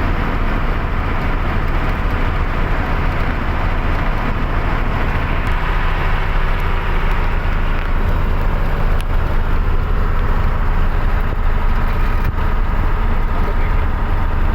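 Truck engine running steadily under way, a constant low drone with road noise, broken by a couple of light clicks about 9 and 12 seconds in.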